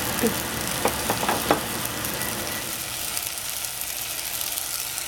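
Tomato wedges frying in oil in a stainless steel saucepan, a steady sizzling hiss, with a few light clicks about a second in.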